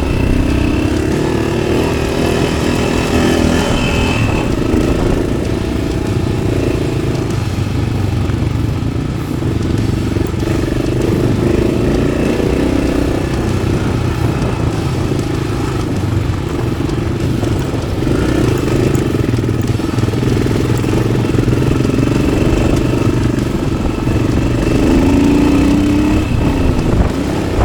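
Yamaha XT600's single-cylinder four-stroke engine with an Arrow exhaust running under way off-road, its revs rising and falling with the throttle, climbing highest near the end.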